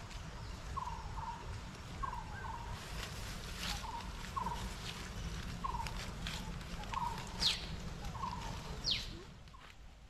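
A bird giving a short falling call over and over, about once a second, with two sharp high down-sweeping notes near the end, over a steady low rumble.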